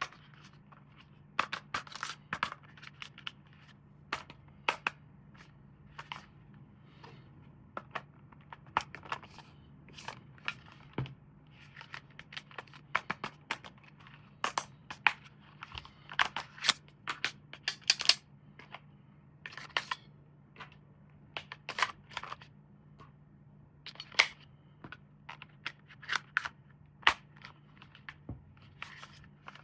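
Plastic toy parts and packaging being handled during unboxing: a run of irregular sharp clicks, snaps and brief crinkles, several a second at times, over a faint steady low hum.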